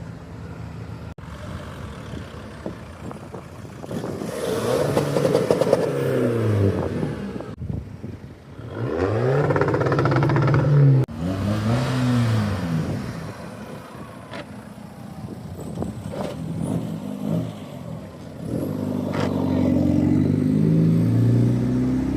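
A car engine being revved several times, its pitch climbing and dropping back, with steadier idling in between. One rev is held high for about two seconds and then cut off abruptly near the middle.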